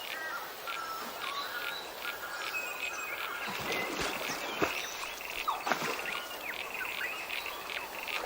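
Jungle ambience: many short, overlapping animal chirps and calls, with a few sliding calls, over a steady hiss.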